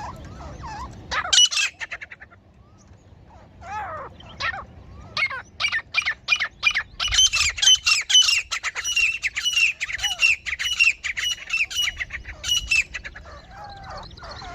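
Female grey francolin calling: a quick burst of harsh notes about a second in, then a long run of short, sharp calls repeated at about three a second, fading near the end.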